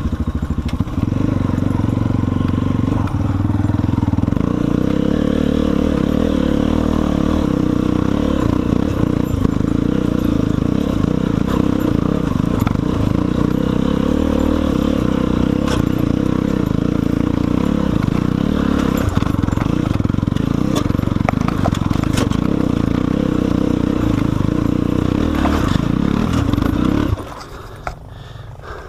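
Enduro motorcycle engine running under load on a rocky trail, with scattered scrapes and knocks of rock, cutting out suddenly near the end.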